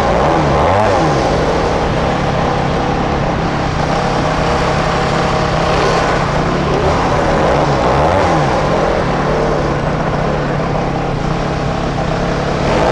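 Small two-stroke motorcycle engines riding in city traffic, their pitch rising and falling several times as the throttle is opened and closed.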